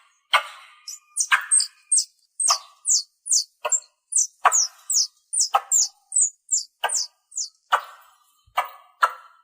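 Squirrel calls: a run of short, very high chirps, each sliding down in pitch, about three a second, mixed with sharp clicking chips about once a second.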